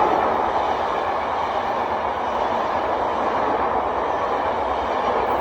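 A passing train: a steady rush of wheels on rail as the coaches roll by, slowly easing off.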